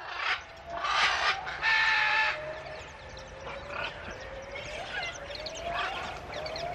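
Bird calls: loud chirping in the first two seconds, then a slow rising whistled call repeated about once a second.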